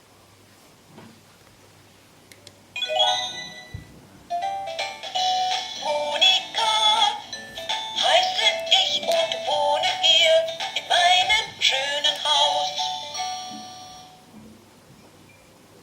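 VTech Go Go Smart Friends playhouse toy playing electronic sounds through its small speaker: a short chime about three seconds in, then a sung electronic children's tune that fades out a couple of seconds before the end.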